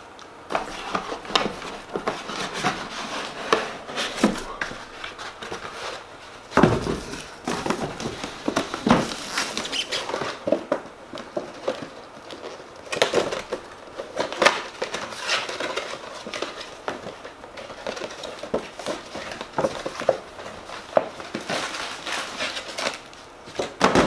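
Hands unpacking and handling the coffee maker's plastic parts and packaging: irregular small clicks, taps and rustles, with a few louder knocks around seven and nine seconds in.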